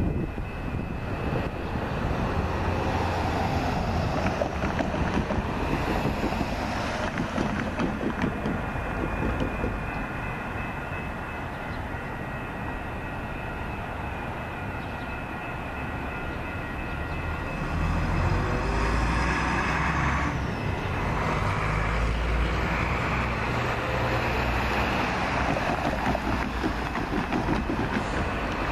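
Metra commuter train approaching a grade crossing, with a steady high ringing over it; the low diesel engine rumble grows heavier about two thirds of the way in.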